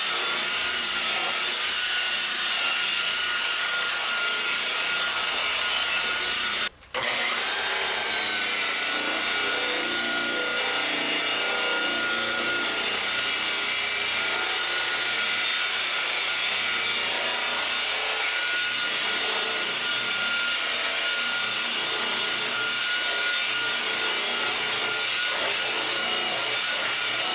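Steady rubbing noise of paint overspray being worked off a car's finish, with a thin, steady high whine under it. The noise cuts out for a split second about seven seconds in.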